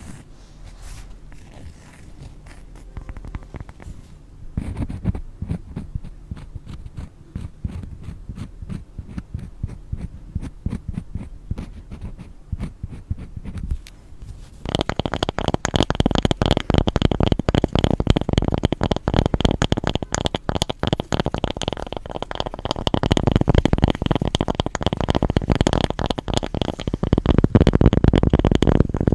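Stones rubbed and scraped against each other in close-up: a dense, gritty run of small scraping strokes. It is soft at first, then louder and brighter from about halfway.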